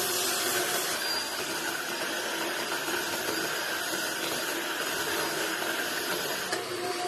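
A woodworking power tool's motor running steadily, with a constant whirring hiss and a steady hum.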